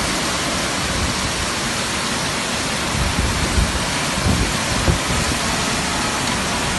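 Heavy storm rain pouring steadily, with a few low gusty rumbles about three to five seconds in.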